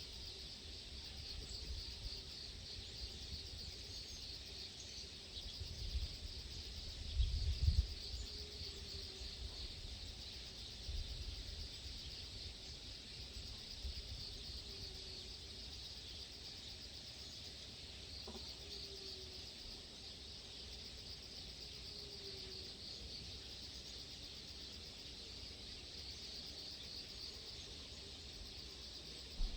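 Steady high chirring of insects with low wind rumble on the microphone, strongest about six to eight seconds in. A short knock comes just before the end.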